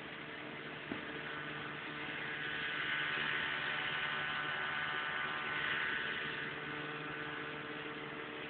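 Motorboat engine running steadily at cruising speed, an even low hum, with a higher hiss that swells a little in the middle and a faint click about a second in.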